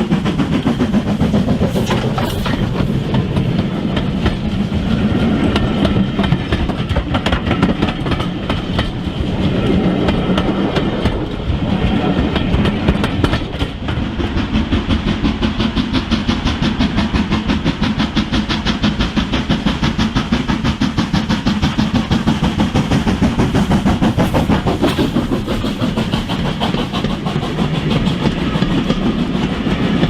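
Model railway train running on the track: a steady motor hum with fast, even clicking of the wheels over the rail joints.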